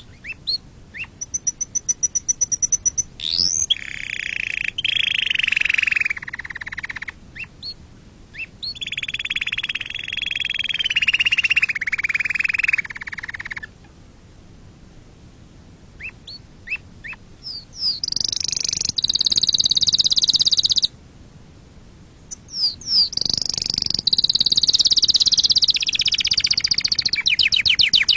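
Domestic canaries singing: long phrases of rapid trills and rolling notes, broken by short chirps and brief pauses.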